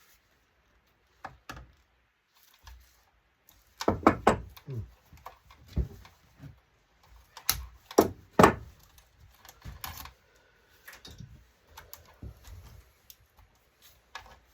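Hard parts of an LCD monitor being handled during disassembly: scattered knocks, clicks and clatters, busiest about four seconds in and again around eight seconds in.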